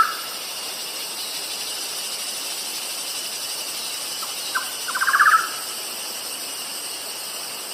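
A bird calling: two short notes followed by a quick rattling series of about ten notes, heard once in full about five seconds in, with the end of a similar call at the very start. A steady chorus of insects runs underneath.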